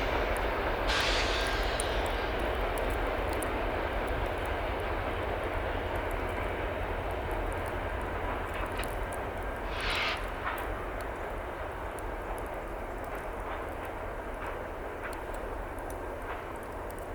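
Freight train rumbling along and slowly fading away, with a brief higher-pitched burst about ten seconds in.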